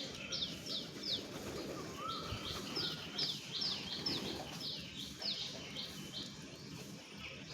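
A flock of birds chirping: a steady run of short, high calls, many sliding down in pitch, several a second.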